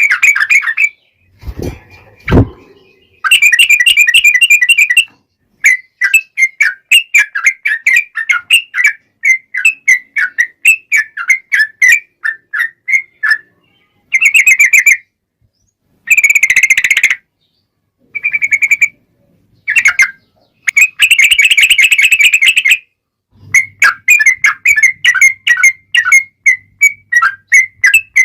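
Yellow-vented bulbul song: loud phrases of rapid, bubbling chattering notes, the long rolling 'ropel' song, repeated with short pauses between them. A brief low thump about two seconds in.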